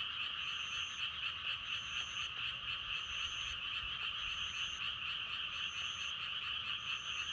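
A dense chorus of many frogs croaking steadily, a continuous high-pitched trilling mass of calls. A higher-pitched call sounds briefly about once a second over the chorus.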